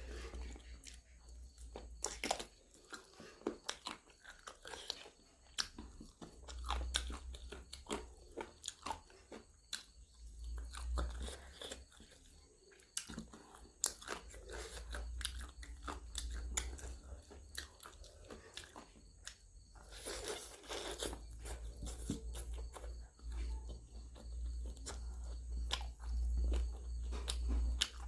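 Close-miked chewing and biting of a chicken leg piece, with many sharp crunchy clicks and mouth noises.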